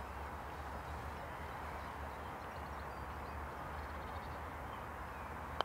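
Quiet outdoor background with a steady low hum and a few faint high chirps. Near the end comes a single sharp click: a putter striking a golf ball on the green.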